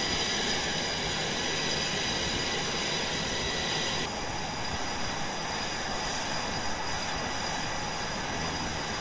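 Jet engines running on an aircraft carrier flight deck: a steady noise with thin high whining tones, the upper part of the noise easing off about four seconds in.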